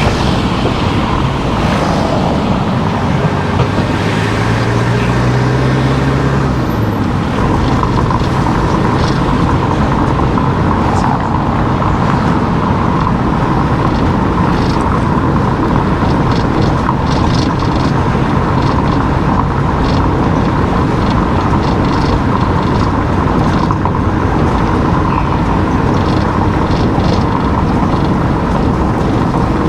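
Car driving, with steady road and engine noise; a low engine note rises briefly a few seconds in.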